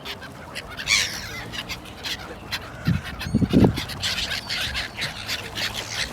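Fowl calling, with three short low calls about three seconds in over many short sharp clicks.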